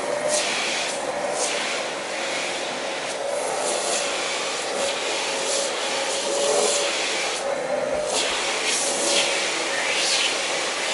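Vacuum cleaner running steadily, its nozzle drawn over a cat's fur, the suction hiss swelling and fading as the nozzle rubs and moves.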